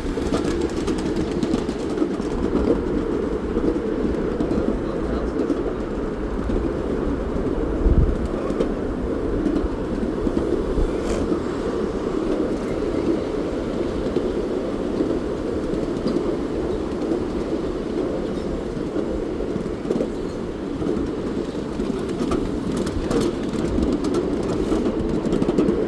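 Steam train running along its track, a steady rolling rumble with one louder knock about eight seconds in.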